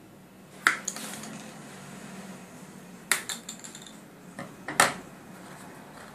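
A few sharp, light clinks and taps of small hard objects handled against each other, irregularly spaced, the loudest three ringing briefly.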